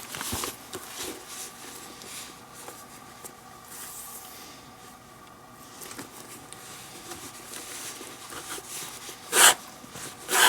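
Leather lace rustling and rubbing against a leather baseball glove as it is worked through the lacing holes during a relace, with two short, louder swishes near the end as the lace is drawn through.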